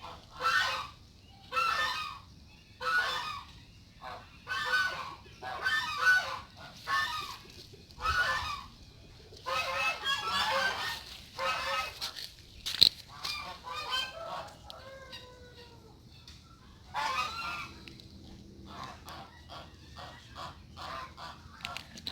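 Geese honking over and over, a loud call about every second, with a sharp click about thirteen seconds in and thinner gliding bird calls in the second half.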